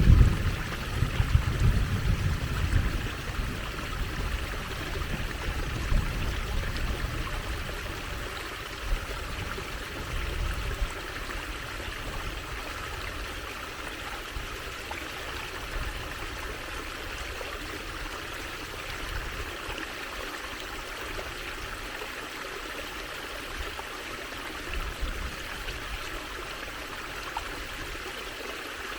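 Water trickling and running steadily over stones in a small stream. Low rumbling gusts come and go during the first ten seconds or so.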